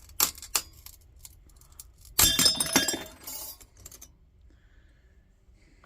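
Cracked glass lantern globe jammed in a Coleman 222B lantern cracking a few times, then shattering about two seconds in, with pieces clinking and tinkling for about a second and a half.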